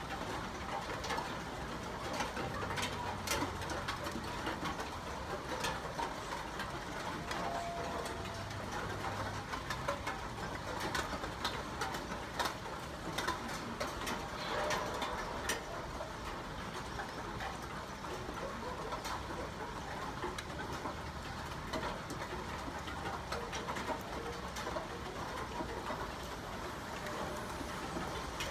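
Steady rain falling, with scattered sharp taps of drops striking a surface.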